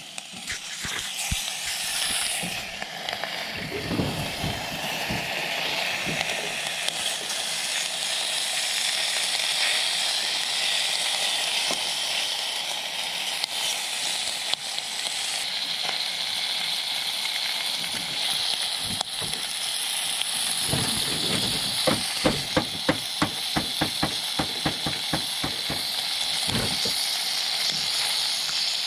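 Ham slices sizzling steadily as they fry in oil in a stainless-steel camping pot on a compact gas burner. About three-quarters of the way through comes a quick run of sharp ticks and pops.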